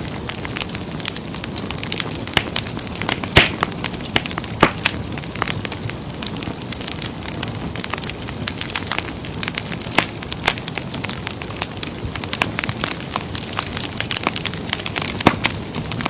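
Fireplace fire crackling, with a dense, irregular patter of small pops over a low rushing hiss. A sharper, louder pop comes about three and a half seconds in, and a few lesser ones follow later.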